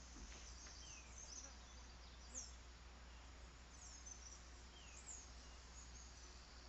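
Faint outdoor ambience: a steady high insect drone, with several short, falling bird chirps scattered through it.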